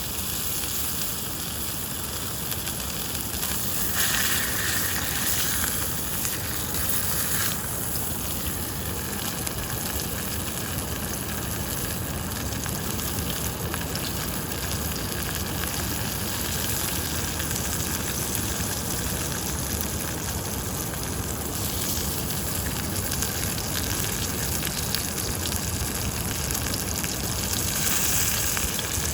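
Wagyu steak frying in a pan over a campfire: a steady sizzle, its texture shifting slightly a few times.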